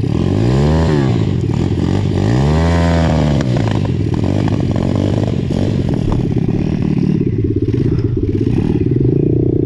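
Pit bike engines running: two throttle blips in the first three and a half seconds, each rising then falling in pitch, then a steady low engine note.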